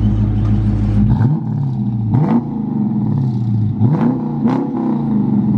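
2018 Dodge Charger R/T's 5.7-litre Hemi V8 idling, then revved in four quick blips, each rising and falling back, through a Super 10 muffler exhaust with the resonators deleted. Very loud, with a few sharp crackles on the later blips.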